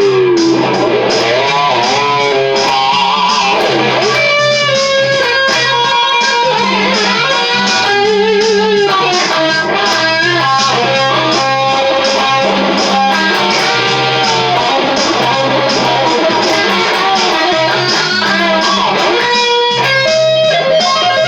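Charvel DK24 HSS electric guitar playing a lead solo with string bends and sustained notes, over a bass-and-drums backing from a DigiTech Trio band-creator pedal.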